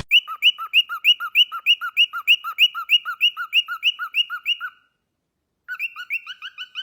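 A bird giving a rapid run of high whistled chirps, about three a second, each a quick hooked note. It breaks off after nearly five seconds and starts again briefly near the end.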